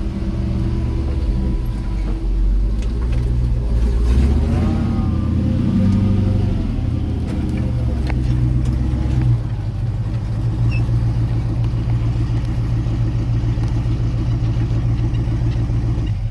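Old pickup truck's engine and drivetrain running while driving, heard from inside the cab, with a steady low hum; the engine note changes about nine seconds in.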